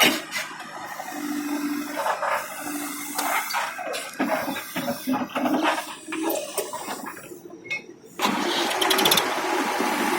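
A tractor's diesel engine starts about eight seconds in and keeps running. Before that there are scattered knocks and clatter.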